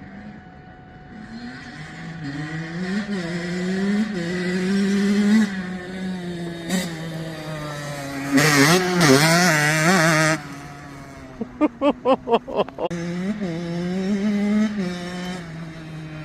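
Kawasaki KX85 two-stroke single-cylinder dirt bike engine with an FMF shorty exhaust pipe, revving up and down through the gears while riding, loudest about eight to ten seconds in. Partway through comes a quick run of about seven short bursts.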